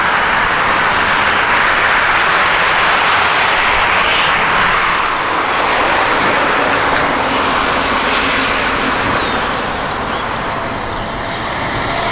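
Jet airliner engine noise: a loud, steady rushing sound that eases slightly near the end, when a steady whining tone comes in.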